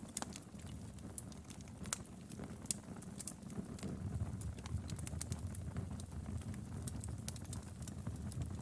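Wood fire crackling in a fireplace: scattered sharp pops and snaps, several a second and irregular, over a steady low rumble of burning.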